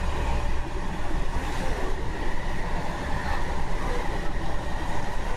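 MTR Tung Chung Line K-train running, heard from inside the carriage: a steady low rumble and rushing noise with a faint steady high whine.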